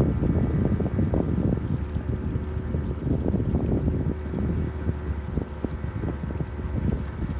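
A small boat's motor running steadily, with wind buffeting the microphone.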